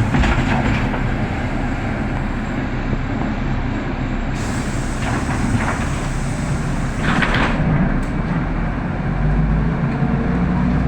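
Inside a city bus on the move: the engine runs steadily under road rumble, with a few short hissing sounds, and the low rumble swells near the end.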